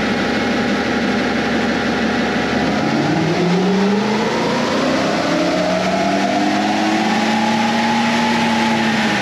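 Jeep CJ's LS1 5.7-litre V8 running under load on a chassis dynamometer during a tuning pull. It runs steadily at first, then about three seconds in its revs climb smoothly for several seconds and level off near the end.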